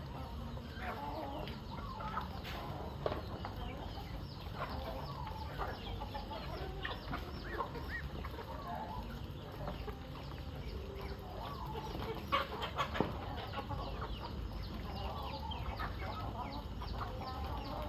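A flock of chickens clucking and chirping all together, busy at feeding time, with a few sharp knocks about three seconds in and again near the middle.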